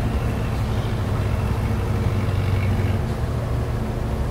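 Steady low rumble of a running engine, with an even hum.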